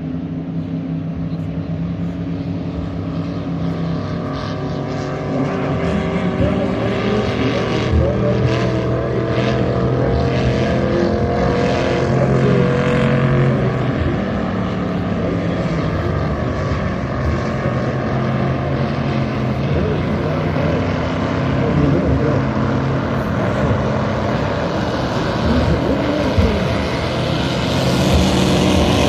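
Vintage racing hydroplanes (thunderboats) running on the river: a loud, steady engine drone with several engine tones overlapping, getting a little louder near the end.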